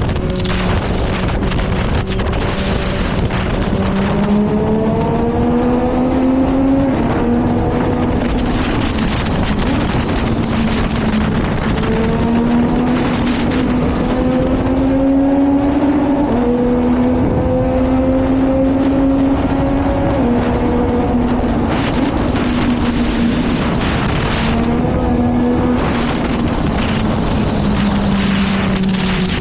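Yamaha MT-09 three-cylinder motorcycle engine pulling through the gears, its pitch climbing and dropping back at each shift several times. Wind rushes over the GoPro's microphone.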